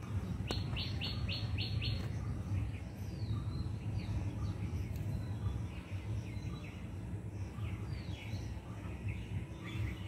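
Birds chirping in a tree: a quick run of five sharp, falling notes about half a second in, then scattered chirps and a few short falling whistles. A low steady rumble runs underneath.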